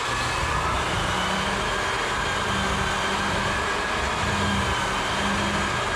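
Floor edger sander with 100-grit paper running steadily on a hardwood floor, a constant motor drone with a steady hum.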